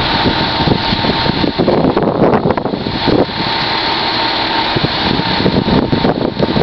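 Steady running of a vehicle engine with road and traffic noise, a dense rumbling hiss with small knocks and a faint steady tone.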